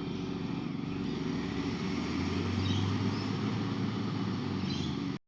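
Garbage truck engine running steadily, with a deeper low drone swelling through the middle; the sound cuts off suddenly near the end.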